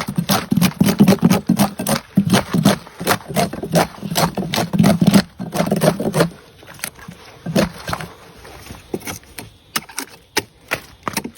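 Fresh bamboo shoot husks being torn and peeled away: many sharp cracks and snaps in quick irregular succession, with a heavier, lower rustle for the first six seconds, then sparser, crisper snaps.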